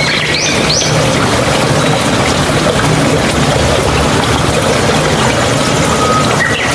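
Mountain stream water running and babbling steadily, with a few short rising bird chirps in the first second.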